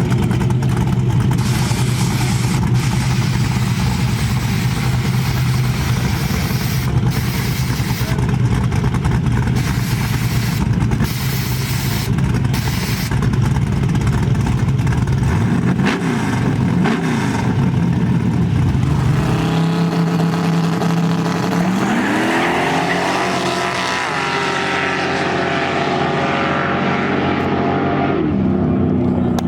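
Turbocharged LS V8 of a Nissan drag truck running steadily while staged, then about two-thirds of the way in accelerating hard on a drag pass, its note climbing steeply and holding high.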